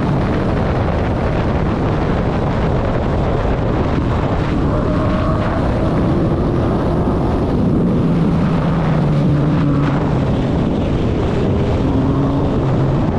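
Suzuki Hayabusa's inline-four engine running while the motorcycle is ridden, its note drifting up and down, with heavy wind noise over the microphone.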